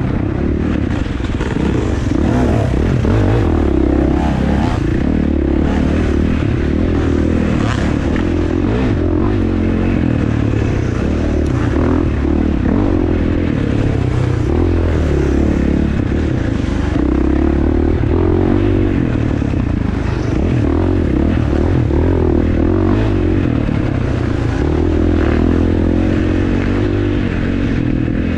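Dirt bike engine running continuously under riding, its revs rising and falling, with scattered clattering and scraping from the bike.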